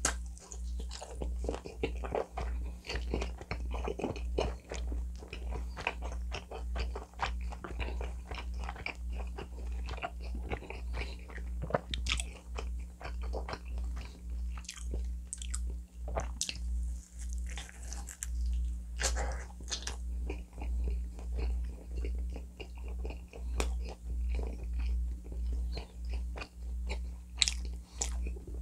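Close-miked chewing of Domino's pizza: a bite into a slice at the start, then continuous chewing with crisp crackles of crust, the jaw working about twice a second.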